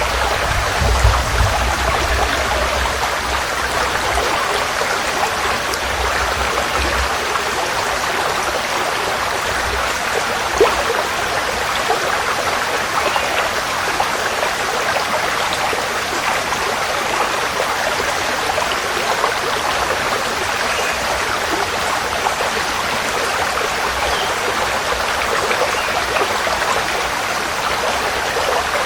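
Forest stream flowing: a steady rush of moving water with fine splashing and trickling, and a low rumble under it for the first seven seconds or so.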